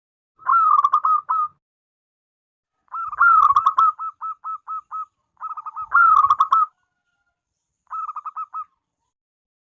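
Zebra dove cooing: four quick rolling coo phrases with pauses between them, the second trailing off in a run of short clipped notes.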